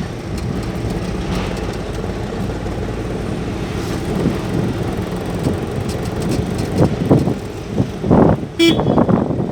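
Steady engine and road rumble heard from inside a moving car on a badly broken road, with a short toot about eight and a half seconds in.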